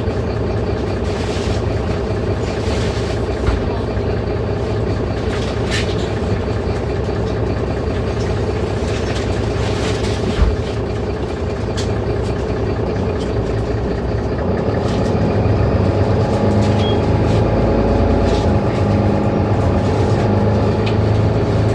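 Mercedes-Benz Citaro C2 city bus's diesel engine running steadily at idle, then rising in level and pitch about two-thirds in as it revs up to pull away. A single knock comes about halfway through.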